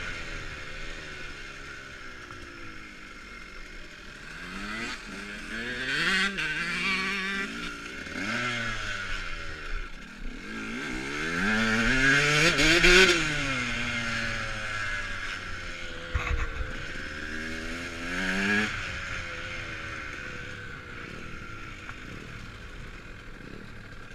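KTM dirt bikes being ridden around a track, their motor pitch rising and falling as they accelerate, pass and back off. The loudest pass comes about halfway through.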